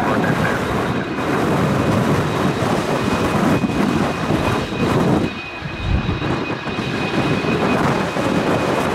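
TBM-700 single-engine turboprop running, with a thin steady high whine over a loud rumble, and strong wind buffeting the microphone in gusts; the level dips briefly past the middle.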